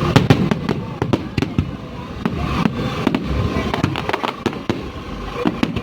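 Fireworks exploding in a rapid, irregular barrage of sharp bangs and crackles over a continuous low rumble, with voices in the background.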